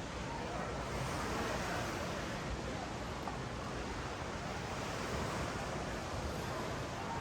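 Ocean surf washing up a sandy beach: a steady wash that swells a little about a second in and again about five seconds in.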